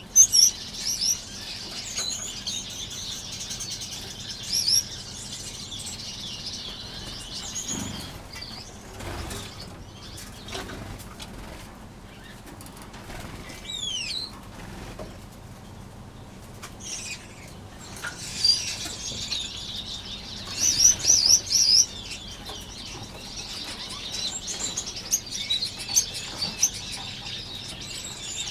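A flock of small aviary finches chirping and wing-fluttering. The high twittering is dense for the first several seconds, thins out in the middle, and picks up again about two-thirds of the way through.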